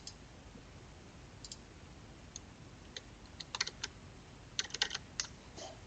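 Faint clicks at a computer: a few single clicks, then two quick clusters of clicks and taps in the second half.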